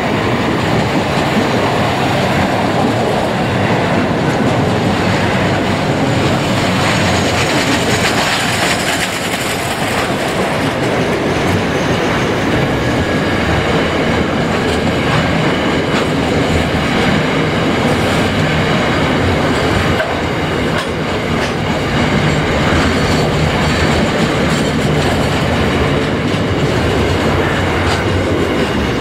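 A train rolling past close by, its steel wheels rumbling and clicking over the rail joints, loud and unbroken.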